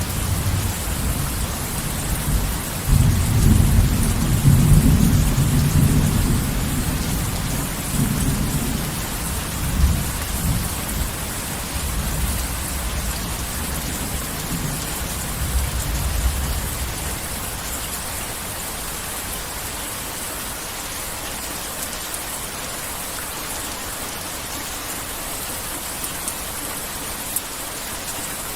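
Heavy rain falling steadily, with a long low roll of thunder that starts a few seconds in, swells, rumbles on with a couple of further surges and fades out about halfway through, leaving the rain alone.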